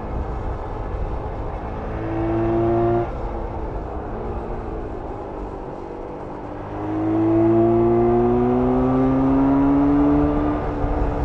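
1994 Jawa 350 two-stroke twin motorcycle engine under way. It pulls briefly about two seconds in and cuts off sharply, runs quieter for a few seconds, then pulls again for a longer stretch with its pitch climbing slowly, and eases off near the end.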